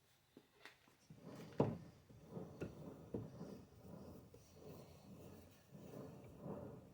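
Quiet, irregular rubbing as paint is worked onto a ride-on train's pedal handle, with a few light knocks, the sharpest about one and a half seconds in.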